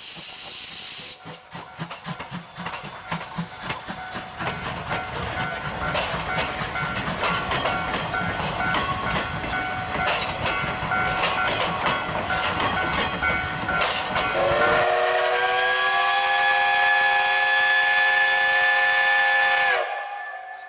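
Steam locomotive C12 66 (a JNR C12 tank engine): a loud hiss of steam for about a second, then a fast rhythmic clatter as the train runs. About fifteen seconds in comes one long chord blast of the steam whistle, about five seconds, which cuts off sharply.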